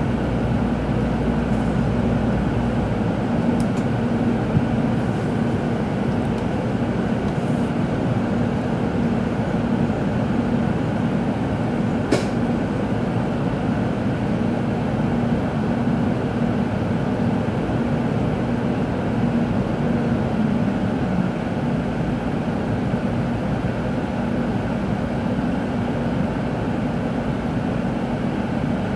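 Tōkaidō Shinkansen train running, heard from inside the passenger cabin: a steady rumble of running noise with a low hum. There is a single sharp click about twelve seconds in.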